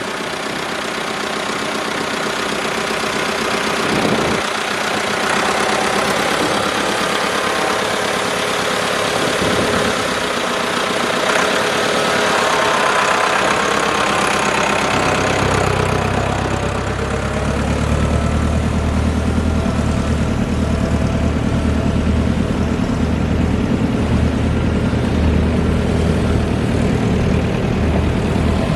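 1984 International tractor engine running steadily. About halfway through, a deep low rumble comes in and holds.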